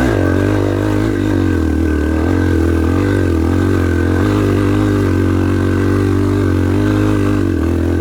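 Yamaha TT-R230 dirt bike's single-cylinder four-stroke engine pulling hard under load on a hill climb, its revs rising and falling with the throttle and dropping near the end.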